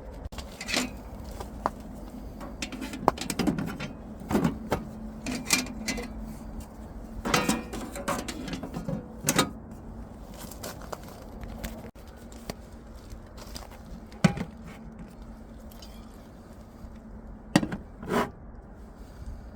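Objects being handled: about a dozen irregular knocks, clinks and short scrapes, over a steady low hum.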